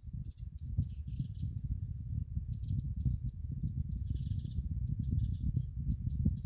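Small birds chirping in short bursts, with a denser trill about four seconds in, over a constant low rumble.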